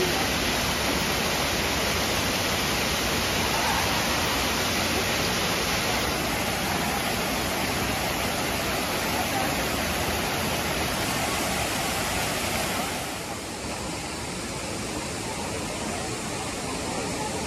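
Rutledge Falls waterfall rushing steadily. About 13 seconds in it becomes a little quieter and duller.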